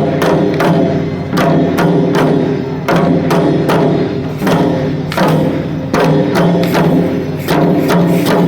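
Shishimai (lion dance) drumming: a taiko struck in a steady, driving beat, about two strokes a second, each stroke sharp and ringing on.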